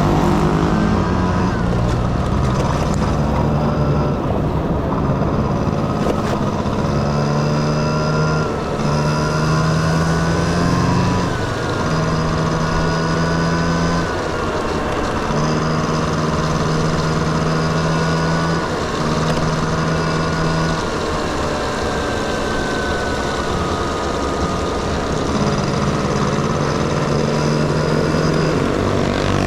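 Honda Dio two-stroke scooter engine running under way, its pitch rising and falling with the throttle over steady wind and road noise. Steady humming tones come and go for a few seconds at a time.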